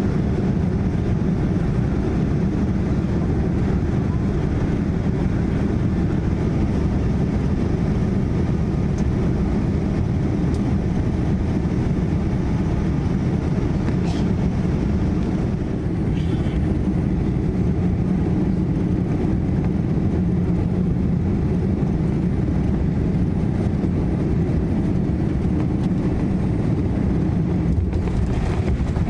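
Cabin noise inside a Boeing 787-9 airliner on final approach: a steady, loud rush of airflow and engine rumble, deepest in the low range.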